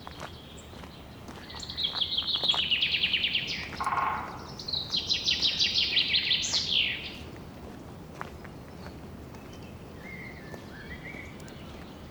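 A songbird singing two rapid trills of about two seconds each, the second ending in a quick upward sweep, over a steady outdoor hush. A fainter, shorter call follows near the end.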